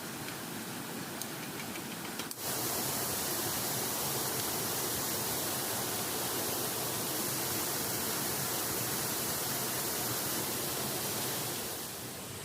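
River water rushing steadily. It gets suddenly louder and brighter about two seconds in and eases back near the end.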